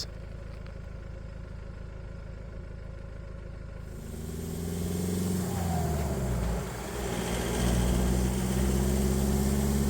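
Vehicle engine, most likely the Iveco Daily 4x4's diesel, at a low steady hum, then about four seconds in it grows louder as the truck pulls away and accelerates. Its pitch dips briefly around the middle, then it runs steadily under load.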